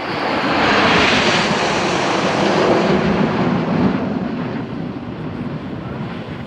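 Jet aircraft flying past: a loud rush of jet noise that peaks about a second in, then drops in pitch and slowly fades as it moves away.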